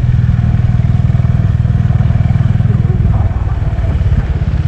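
Single-cylinder 350 cc motorcycle engine running at steady road speed, with a fast, even low pulse. The engine eases off briefly about three seconds in.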